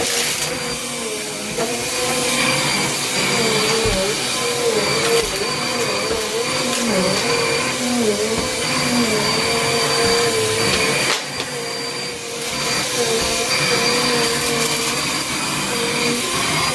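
Small Bissell upright vacuum cleaner running, its motor pitch wavering, with scattered crackles as the brushroll picks up gritty debris. The sound dips briefly about eleven seconds in.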